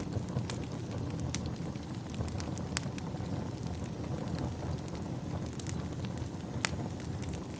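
Wood fire crackling in a fireplace: scattered sharp snaps and pops, a few of them much louder, over a steady low rumble.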